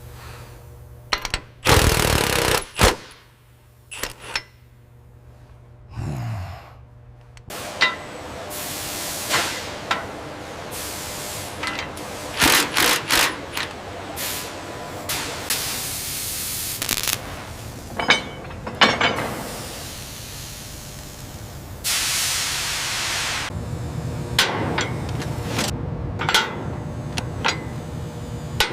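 Truck assembly-plant machinery: irregular metallic knocks and clanks from tools and machines, with several longer bursts of hissing noise and a brief falling whine about six seconds in.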